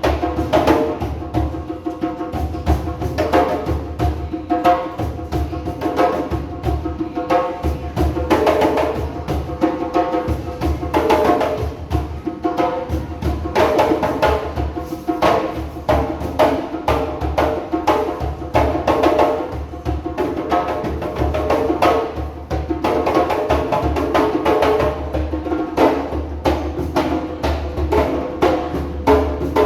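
Several djembe hand drums played together in a fast, continuous rhythm of sharp slaps and deeper bass strokes.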